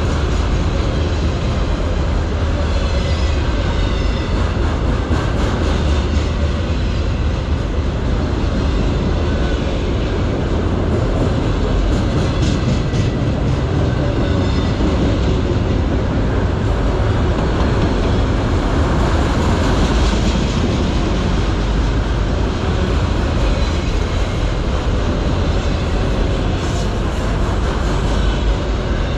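Autorack freight cars rolling past close by: a steady rumble and clatter of steel wheels on the rails, with faint brief squeals above it.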